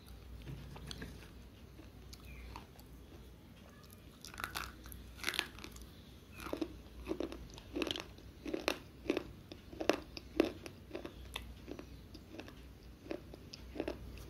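Slate pencil being bitten and chewed, sharp dry crunches about two a second, starting about four seconds in after a quieter opening.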